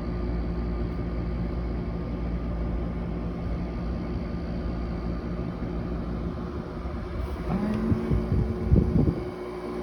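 GE dehumidifier running: a steady low hum of its compressor and fan with a faint steady tone. Near the end a few brief, louder irregular sounds break in.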